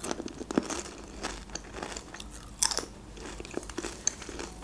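Close-miked chewing of a crunchy chip: irregular small crunches and mouth sounds, with a louder crunch a little past halfway.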